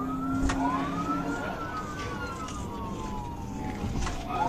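Police car siren wailing, with two overlapping tones slowly rising and falling, a new cycle beginning near the end, over road noise from the moving cruiser.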